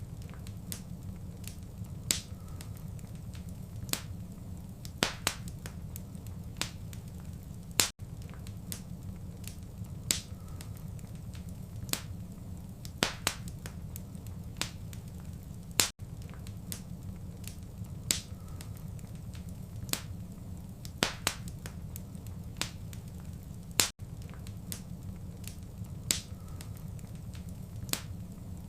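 Wood fire in a fireplace crackling: irregular sharp pops and snaps over a steady low rumble, with a very brief dropout about every eight seconds.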